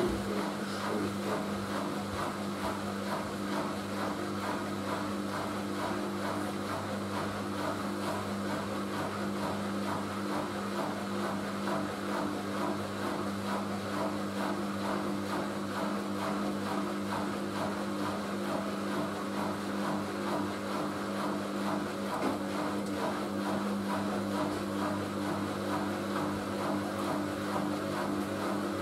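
Siemens Siwamat washing machine running steadily, a constant motor hum over a whirring rush with no change in speed.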